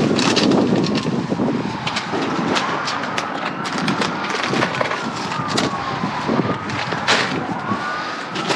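Items being rummaged through and handled in a dumpster: repeated clatters, knocks and rustling, with a faint tone slowly rising and falling behind them.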